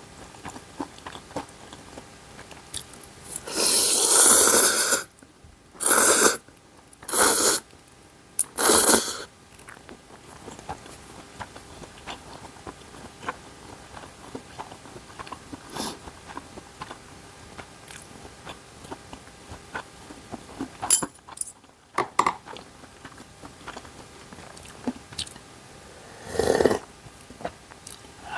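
A person eating ramen noodles, with four loud slurps a few seconds in and another near the end, and quiet chewing with small wet mouth clicks in between.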